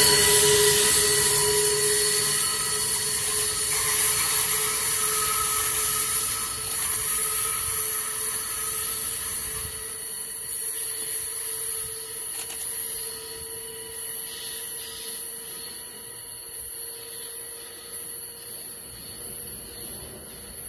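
Amtrak Acela II (Alstom Avelia Liberty) electric high-speed trainset's rear end passing close and then running away down the line: wheel-on-rail noise with a steady electric whine in several pitches, fading gradually as the train recedes.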